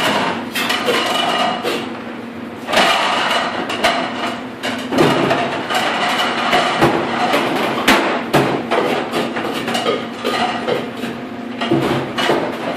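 White ceramic plates and bowls clattering and knocking against each other and the stainless-steel dish table as they are handled and stacked at speed: a busy, irregular run of clinks and knocks.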